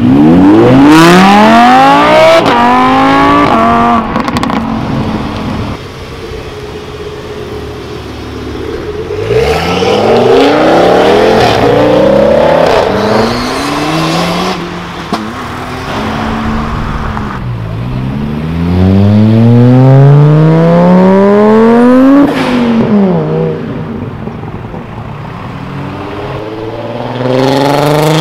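Several Audi cars accelerating hard one after another, each engine revving up in pitch through the gears in three or four loud bursts, with quieter engine noise between them. Starting with an Audi R8's V10, and one car's note drops in pitch as it passes about two-thirds of the way through.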